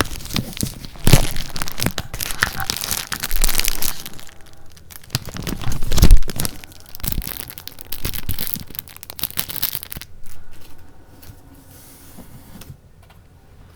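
Paper being handled, rustling and crinkling with sharp taps and handling knocks, busiest and loudest in the first ten seconds, then dying down to faint, sparse rustles.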